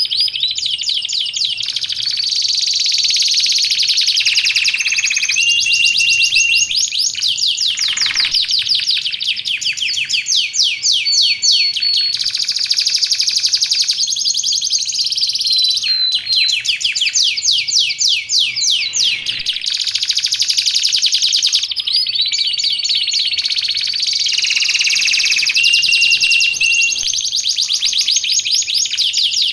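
Domestic canary singing without a break: long runs of fast trills and rolling notes, with short held whistles between them.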